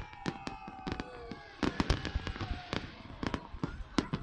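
Fireworks display: many sharp bangs and crackles in quick succession over a steady crackling hiss, with a few thin whistling tones sliding slightly down in pitch.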